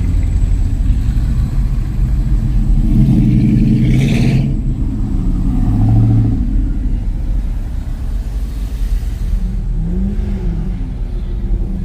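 Car engine rumbling loudly and steadily, with a few revs that swell and fall back.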